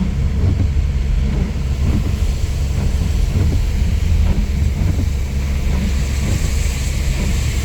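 Car driving, heard from inside the cabin: a steady low engine and road rumble, with a hiss that grows louder near the end.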